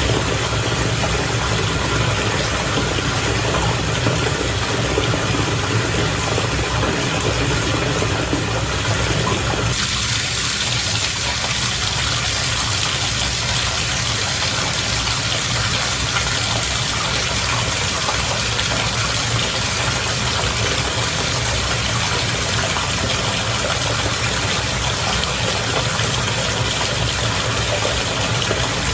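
Bath water bubbling and churning steadily, with a low rumble underneath. About ten seconds in the sound shifts abruptly to a hissier texture.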